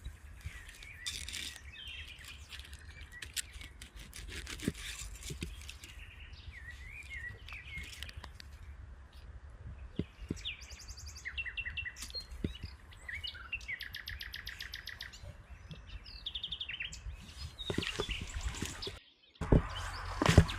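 Small songbirds chirping and trilling in forest, the calls coming in repeated short phrases over a steady low rumble, with scattered soft clicks. The sound cuts out briefly near the end.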